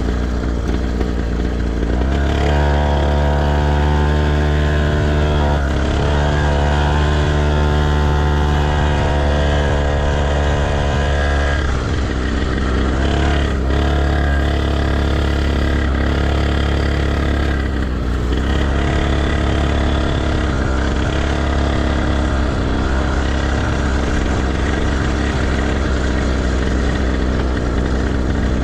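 Motocross motorcycle engine running, holding fairly steady revs with several brief drops in pitch. A deep steady rumble sits underneath.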